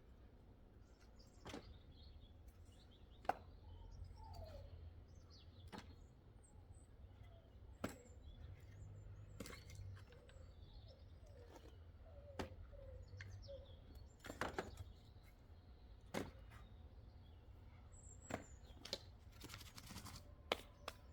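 Wood being chopped with an axe: about a dozen sharp strikes, irregularly spaced one to two seconds apart, several close together near the end. Birds chirp in the background over a steady low rumble.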